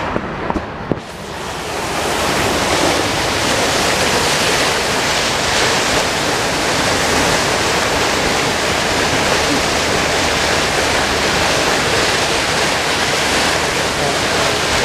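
Loud, steady rush of water with wind on the microphone, swelling up about a second and a half in and then holding even.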